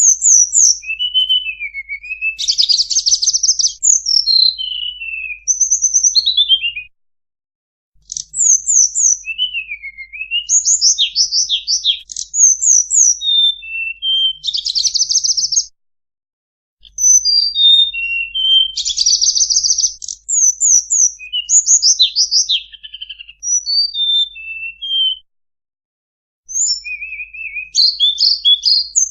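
Tledekan bird song from a lure recording: bouts of quick high chirps, rapid buzzy trills and falling runs of short notes. Each bout lasts several seconds, with brief silent pauses between them.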